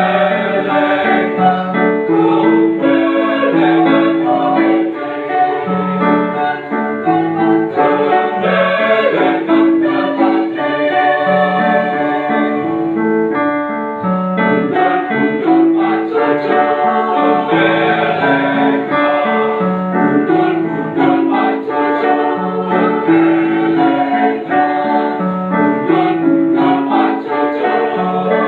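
A mixed choir singing a song in parts, with keyboard accompaniment.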